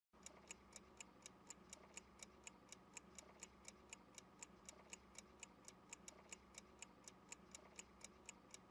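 Clock-ticking sound effect, about four even ticks a second, starting abruptly and then running steadily. It serves as a pause timer for the learner to answer.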